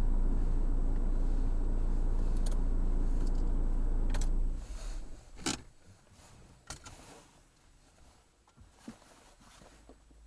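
Car engine idling with a steady low hum, then switched off about four and a half seconds in. After that a few sharp clicks and taps sound in the quiet, the loudest about a second after the engine stops.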